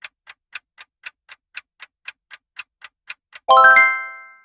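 Quiz countdown-timer sound effect: clock-like ticking about four times a second, then, about three and a half seconds in, a bright bell chime that rings out, marking that the answer time is up.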